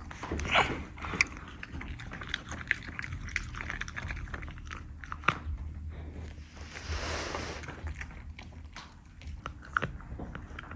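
A dog chewing food, with repeated sharp crunches and clicks of its teeth.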